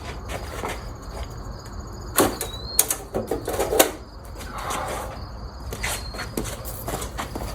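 Irregular sharp knocks and clicks, with a cluster of louder ones in the middle, over a faint steady high-pitched chirr.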